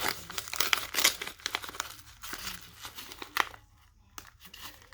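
Plastic packaging around trading cards being crinkled and torn open by hand, loudest in the first second, then softer crackling with a few sharp crinkles.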